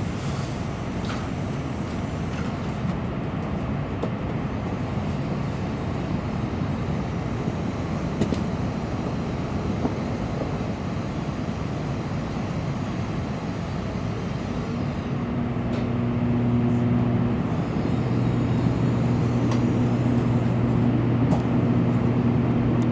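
Tokaido Shinkansen train heard from inside the passenger car, rolling slowly along a station platform with a steady rumble of wheels and running gear. About fifteen seconds in, a low steady hum joins and the sound grows a little louder.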